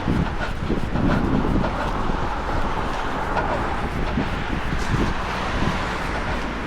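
Street noise of passing car traffic, with wind rushing over the microphone of a body-worn action camera.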